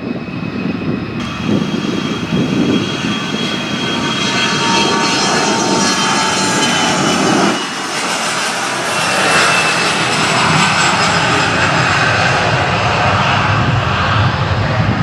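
Jet aircraft's turbofan engines running loud, a broad rushing roar with a high whine whose tones slowly drop in pitch. The roar dips briefly about halfway through, then swells again.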